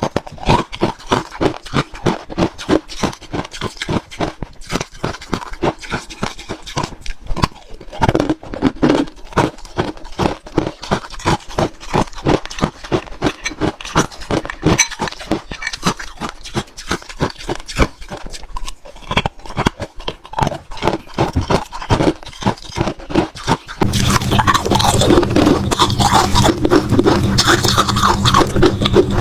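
Close-up crunching and chewing of frozen matcha ice: a rapid run of crisp crunches. Near the end it turns louder and denser, with a steady low hum underneath.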